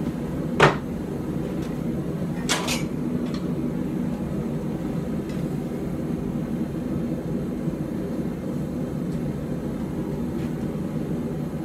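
Steady drone of a blacksmith's forge running, with a sharp metal clink about half a second in and a quick double clink a couple of seconds later, of tongs handling a hot knife blade.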